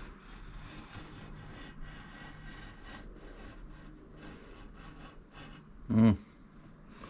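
Steady scratching and rubbing as a scribe is drawn along steel exhaust pipe to mark a cut line. A short loud vocal sound about six seconds in.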